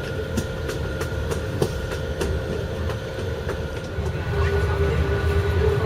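Passenger train running on rails: a steady low rumble with irregular clicks from the wheels over the track. About four seconds in the rumble grows louder and a steady whine joins it.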